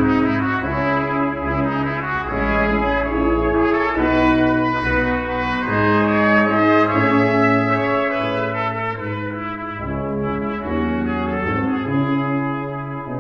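Small brass ensemble playing a brass-quintet arrangement, with trumpets and trombones holding chords that change every second or two over a low bass line.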